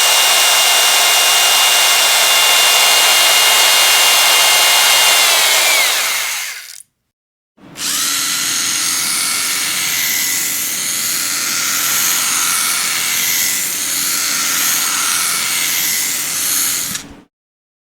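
Electric power drill running at full speed with a steady high whine, then falling in pitch as it winds down and stopping about seven seconds in. After a short silence it runs again at a steady, somewhat lower-pitched speed for about nine seconds and stops shortly before the end.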